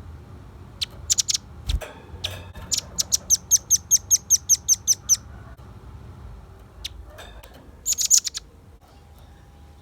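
Velvet-fronted nuthatch calling: a few sharp high chips, then a rapid run of about a dozen chips at roughly five a second, and another quick burst of chips later on.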